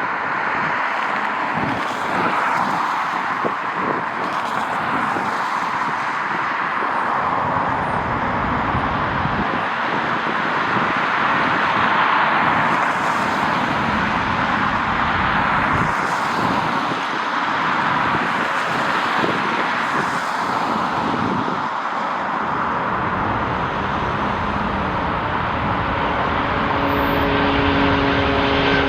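A steady rushing airport noise with gusts of wind buffeting the microphone. Near the end, the steady hum of an approaching aircraft's engines starts to rise in.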